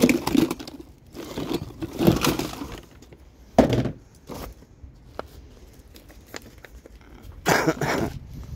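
Scattered knocks, rustles and crinkles of loose items being handled and rummaged through, with a longer harsh noisy burst near the end.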